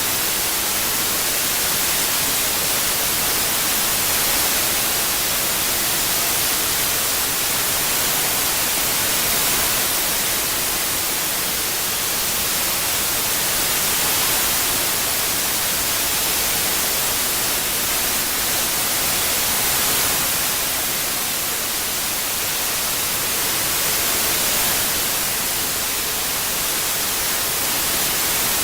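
Synthetic white noise: a steady, bright hiss with no tones or events, processed as '8D' surround audio. Its level swells and eases gently about every five seconds as the sound pans.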